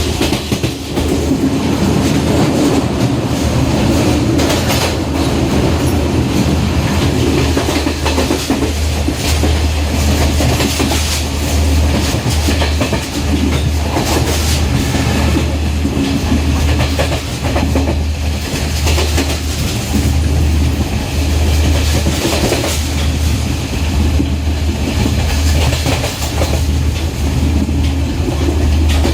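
Diesel intercity express train running at speed, its wheels clattering over the rail joints in an irregular clickety-clack over a steady low rumble.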